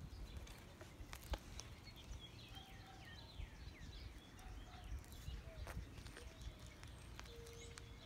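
Faint songbird chirps, a run of short quick notes, with a few sharp clicks of steps on pavement and a low wind rumble; a steady tone sets in near the end.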